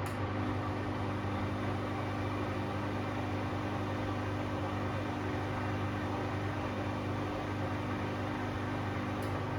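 Bosch Classixx 6 washing machine in its 600 rpm intermediate spin: the drum spinning at a steady speed, with a constant motor hum over a whooshing noise.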